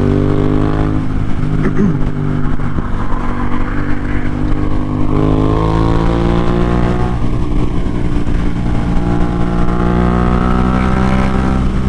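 Yamaha MT-07's 689 cc parallel-twin engine under way on the highway, accelerating with its pitch climbing and dropping back a few times as it shifts up through the gears, over steady wind and road noise.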